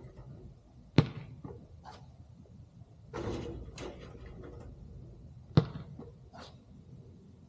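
A basketball striking a hard surface twice, about four and a half seconds apart, each a single sharp thud, with softer scuffing in between.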